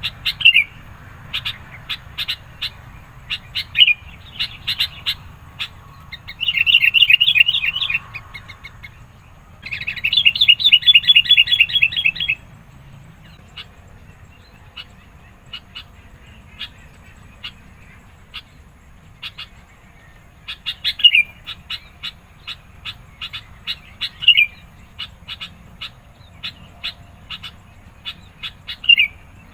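Sooty-headed bulbul calling insistently with sharp repeated chirps. A third of the way in come two fast, dense chattering bursts of about two seconds each. After a sparser spell in the middle, more sharp chirps follow.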